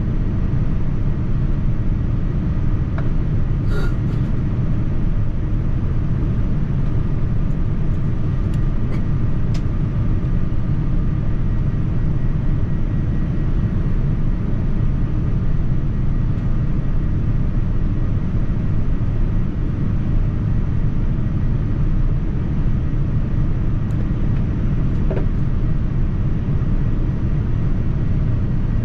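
Steady low rumble of cabin noise aboard a Boeing 787-9 airliner, engine and airflow noise at an even level, with a few faint clicks.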